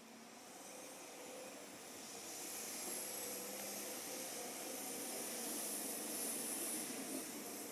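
A train drawing near, its running noise building up over the first few seconds into a steady rush with a high hiss and a faint high whine.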